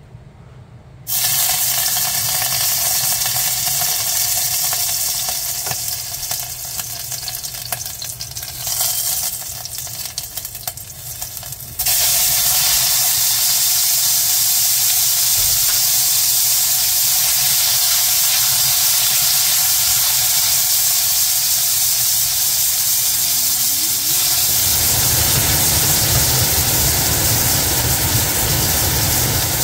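Konnyaku balls frying in hot oil in a stainless steel saucepan: a loud, steady sizzle that starts suddenly about a second in and gets louder around the middle.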